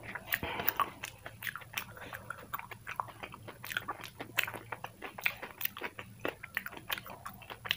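A person chewing food, with many quick, irregular mouth clicks and crunches.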